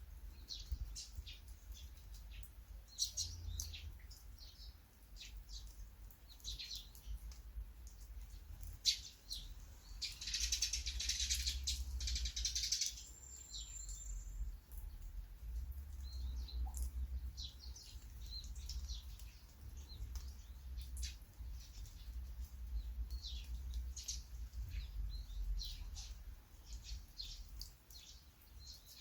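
Small birds chirping repeatedly in short high calls, with a denser rasping burst about ten seconds in that lasts around three seconds, over a low rumble.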